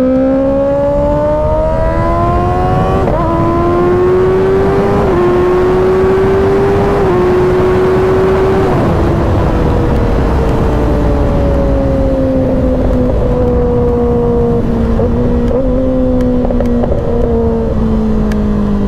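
Kawasaki ZX-6R 636 inline-four engine pulling hard up through the gears. Its pitch climbs and drops at each of four quick upshifts in the first nine seconds, then falls slowly as the bike eases off, with heavy wind rush on the microphone.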